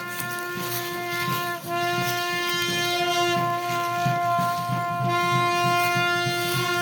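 A wind instrument plays long, held notes at a steady pitch, pausing briefly about a second and a half in, over a rhythmic low beat.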